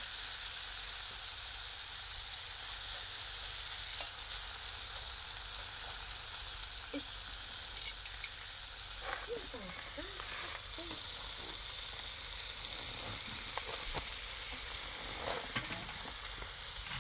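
Pieces of offal with garlic slices sizzling steadily in a small cast-iron skillet over a charcoal shichirin, with a few faint clicks.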